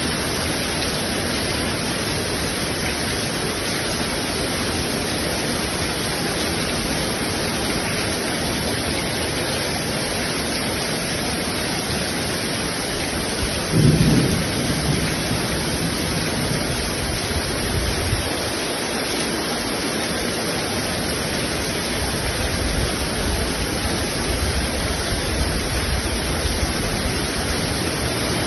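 Heavy rain drumming steadily on a tin roof. About halfway through a sudden loud clap of thunder breaks in and rumbles on; softer low thunder rumbles return near the end.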